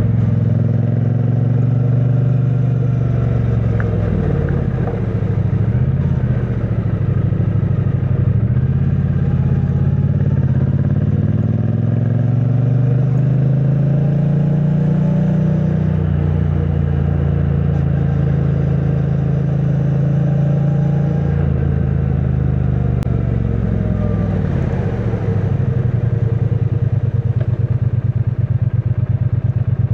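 2022 Triumph Bonneville T100's 900 cc parallel-twin engine running through its stock exhaust while under way. The engine note rises and falls several times as the throttle and gears change.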